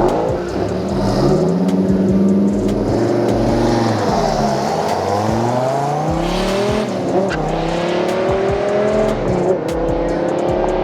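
Car engine at full throttle on a drag-strip pass, accelerating hard through the gears. The pitch climbs steadily in each gear and drops sharply at upshifts about 4, 7 and 9.5 seconds in.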